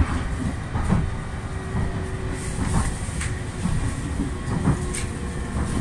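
JR East E531 series electric train running into a station, heard from inside the car: a steady low rumble with scattered clicks from the wheels over the rails. A faint steady hum joins about halfway.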